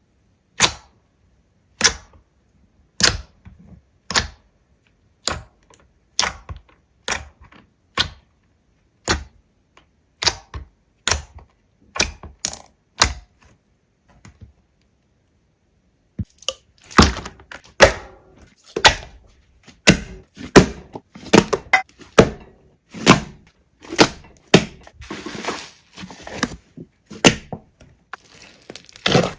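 Slime being pressed and squeezed by hand, giving sharp clicking pops about once a second. After a short pause, faster, denser clicks and crackling follow.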